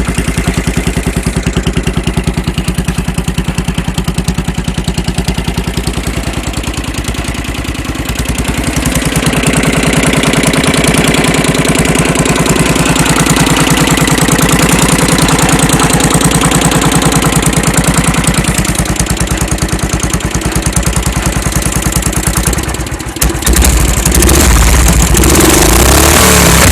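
Tractor engine running with an even firing beat. It picks up a little about a third of the way in, dips briefly near the end, then runs on with a heavier, lower sound.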